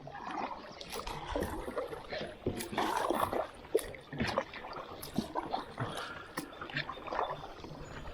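Kayak paddling: paddle blades dipping and splashing in the creek water, irregular throughout, with scattered sharp clicks.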